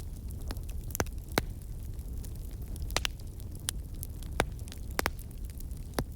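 Campfire crackling: scattered sharp pops and snaps, about one a second, over a steady low rumble.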